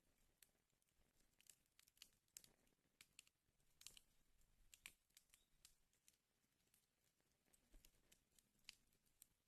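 Wood fire crackling in a fireplace: faint, irregular pops and snaps over a low hiss.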